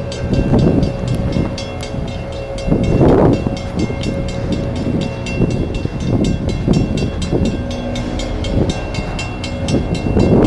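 Long coal train rolling past, its wheels giving a rapid, even ticking on the rails, with a faint steady whine above the noise of the train.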